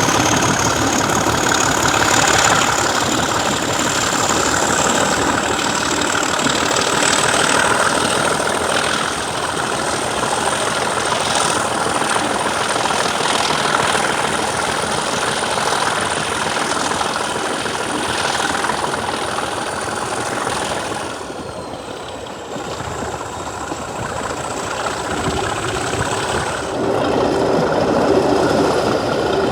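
Class 37 diesel locomotive 37250's English Electric V12 engine working under power, with a high whistle that rises over the first several seconds and then holds steady. At about 21 seconds the whistle drops in pitch and the engine sound eases, then it builds again near the end.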